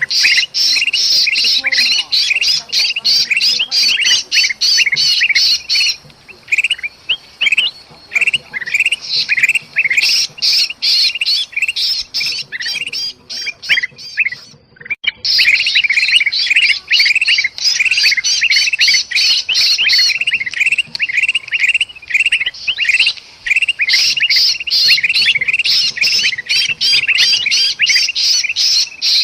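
Bulbuls calling in a noisy, agitated chorus: dense, rapid, harsh squawks and chirps, mixed with the distress calls of a sooty-headed bulbul caught in a trap. The calling thins out twice and breaks off for a moment a little past halfway.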